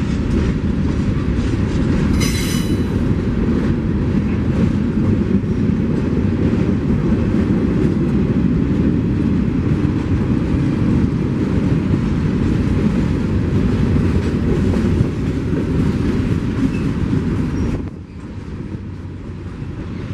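A train rolling past close by: a loud, steady rumble of cars on the rails, with a brief high wheel squeal about two seconds in. The rumble drops away sharply near the end.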